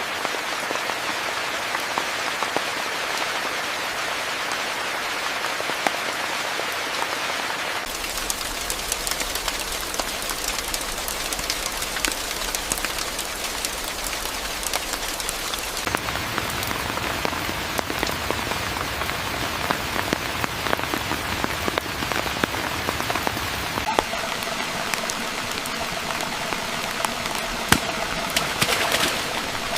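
Steady rain falling, with many sharp individual drop strikes over a continuous hiss. The texture of the rain changes abruptly about eight seconds in and again about sixteen seconds in.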